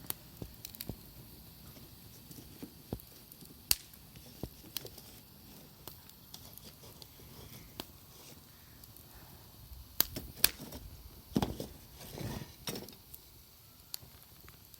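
Wood campfire burning, crackling with scattered sharp pops. A few duller knocks come about three-quarters of the way through.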